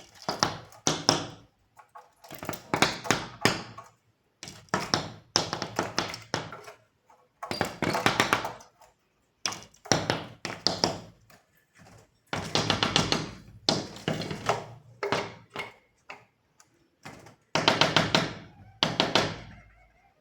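A bird pecking hard at window glass in repeated bursts of rapid taps, each burst a second or so long with silences between. It is attacking its own reflection, taking it for a rival bird.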